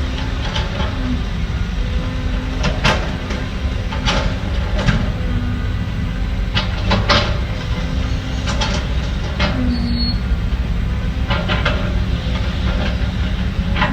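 Heavy diesel construction machinery running at a steady low rumble with a droning tone. Sharp clanks and knocks come at irregular intervals, about a dozen in all.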